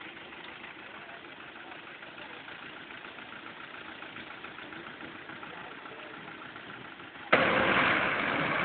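Tractor engine idling steadily. About seven seconds in, the sound abruptly jumps much louder and stays loud.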